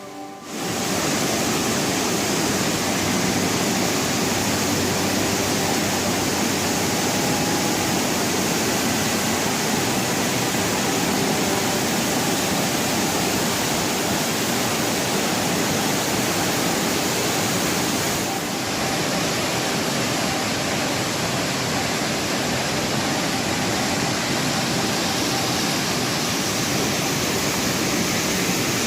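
Waterfall: a steady rush of falling water, with a brief slight dip about two-thirds of the way through.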